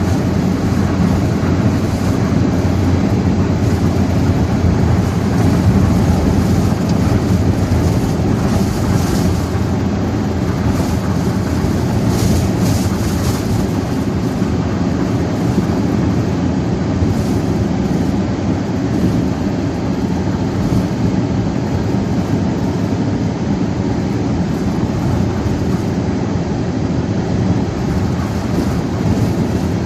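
Strong wind buffeting the microphone, a loud, steady rumble with no letup.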